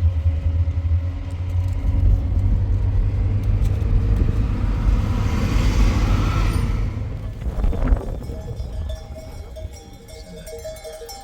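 Low rumble of a running motor vehicle, with a brief hiss swelling about five to seven seconds in; the rumble fades away after about eight seconds.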